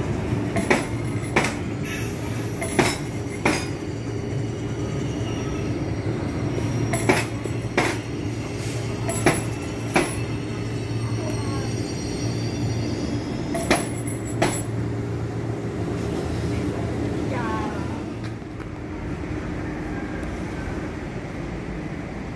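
KRL electric commuter train rolling slowly through the station with a steady hum. Its wheels clack over a rail joint in pairs, five times in the first fifteen seconds. A faint wheel squeal comes near 17 s before the sound fades.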